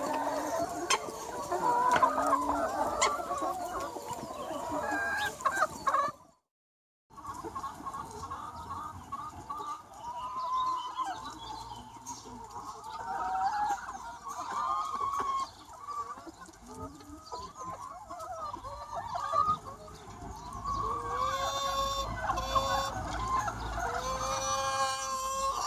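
A large free-range chicken flock clucking and calling, many hens at once. The sound cuts out completely for under a second about six seconds in, then resumes, with a few longer drawn-out calls near the end.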